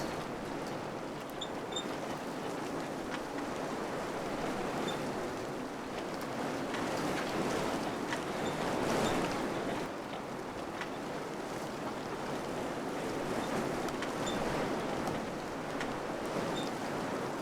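Wind blowing steadily through a village, swelling a little about halfway through, with faint scattered ticks.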